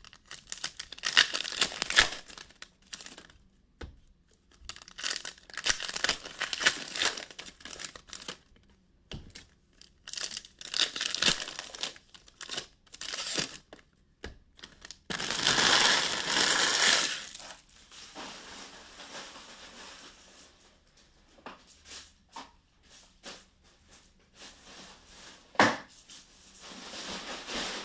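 Trading-card pack wrappers being torn open and crinkled by hand, in repeated bursts of crackling a few seconds apart. The longest and loudest burst comes a little past the middle, and softer rustling follows.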